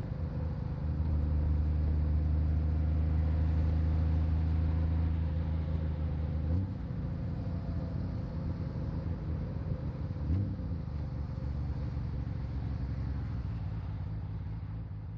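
Honda Valkyrie's flat-six engine running under way, heard through a microphone on the rider's back. It pulls harder for a few seconds, then eases to a lower level with brief pitch changes about six and a half and ten seconds in, and begins fading at the very end.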